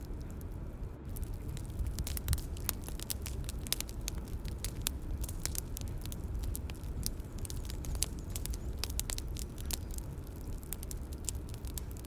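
Bonfire crackling: many quick, irregular pops and snaps over a steady low rumble of burning.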